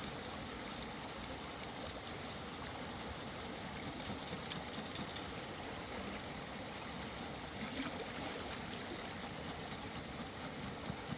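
Mountain river water running steadily.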